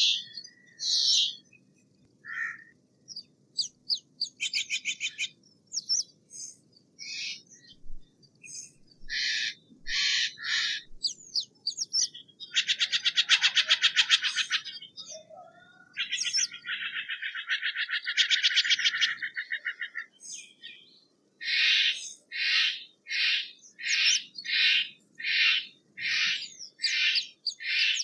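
Steller's jay calling: scattered harsh notes, then two long rattling calls of a few seconds each in the middle, then a steady series of harsh calls at about two a second.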